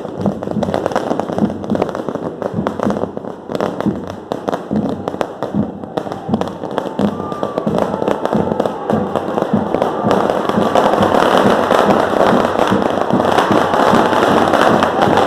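A string of firecrackers bursting in rapid, irregular cracks, with a few short whistles from about seven seconds in.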